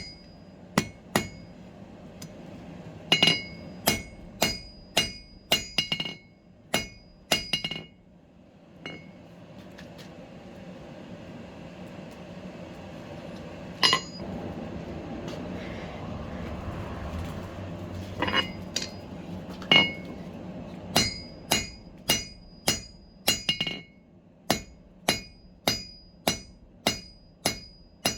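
Hammer blows on steel over an anvil, in bouts of sharp strikes that each ring briefly. A steady rushing noise fills a lull in the middle with only a few single blows, then an even run of strikes about two a second follows.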